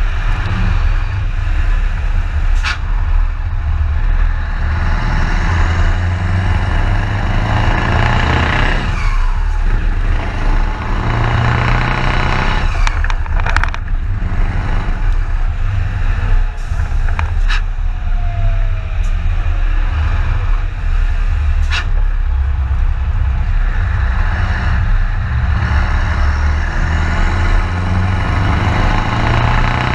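Scania T144's 14-litre V8 diesel running under way, a deep steady drone with swells that rise and fall over several seconds, as when pulling through the gears. A few sharp short clicks or hisses come through now and then.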